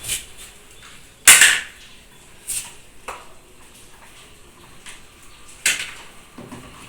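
A handful of sharp clicks and knocks, the loudest about a second in, from a plug and wiring being handled while a washing machine is hooked up to an inverter.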